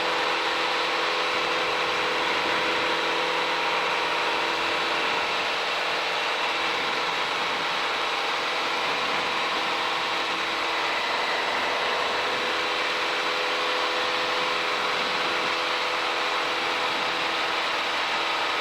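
Piper Cherokee's piston engine and propeller droning steadily in climb after takeoff, heard inside the cabin, with a constant engine hum.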